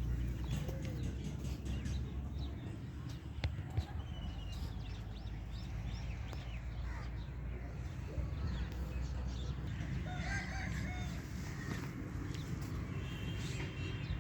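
Chickens clucking and a rooster crowing, with scattered short calls over a steady low rumble.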